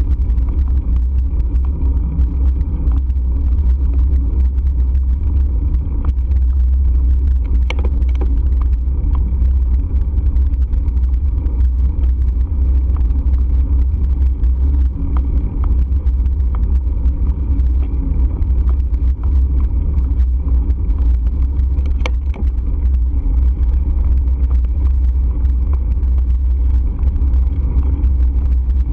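Steady, loud low rumble of riding, with many small clicks and ticks scattered through it.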